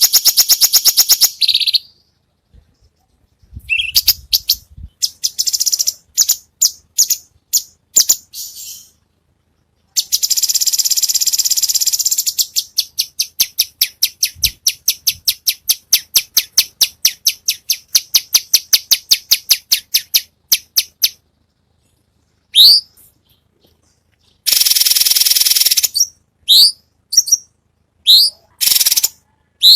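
Songbird song: bursts of dense, high-pitched trills and rapid rattling runs separated by short pauses, a long stretch of fast repeated ticking notes in the middle, and short sharply rising whistles near the end.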